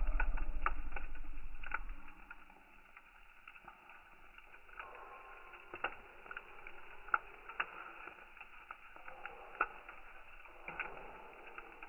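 Firewood burning in a wood grill, crackling and popping with frequent sharp snaps over a steady hiss. A loud low rumble fills the first two seconds.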